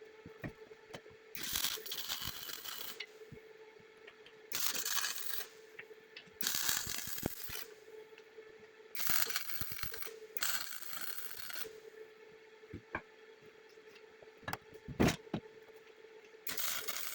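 Six scraping strokes, each about a second long, over a faint steady hum, with scattered clicks and one sharp knock near the end.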